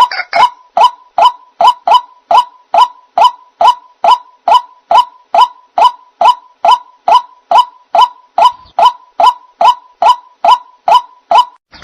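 White-breasted waterhen (ruak-ruak) call used as a bird-trapping lure: a steady, unbroken series of short, identical notes at one pitch, about two and a half a second.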